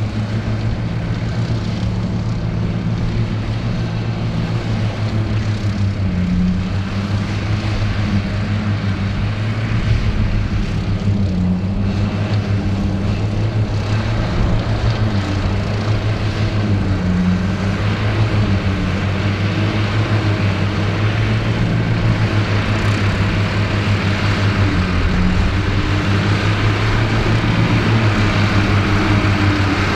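Ford 8630 tractor's six-cylinder turbo diesel running steadily under load, driving a trailed Mengele SH40N forage harvester cutting silage. A constant deep engine drone with machinery noise over it, growing slightly louder toward the end.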